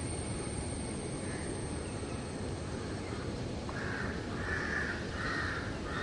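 A bird giving a series of four harsh, hoarse calls, starting a little past halfway and evenly spaced.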